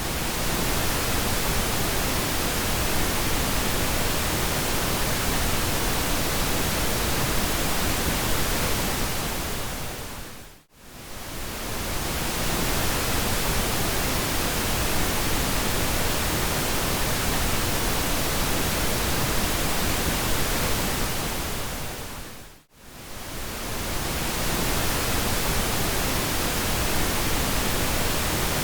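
Pink noise: a steady, even hiss across the whole range. It fades down to near silence and straight back up twice, about every twelve seconds.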